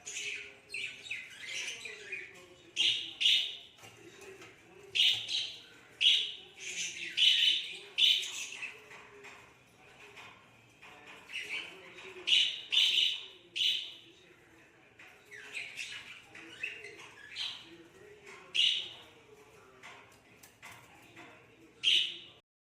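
Pet budgerigar chirping and chattering in a series of short, loud, high-pitched chirps that come in clusters, with brief pauses between them.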